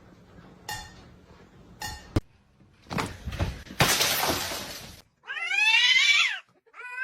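A crash of something falling and breaking, then a cat's drawn-out meow that rises and falls in pitch near the end.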